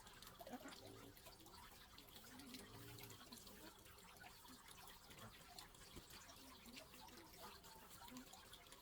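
Near silence: faint background ambience with scattered light ticks and a faint pitched call or voice about one to three seconds in.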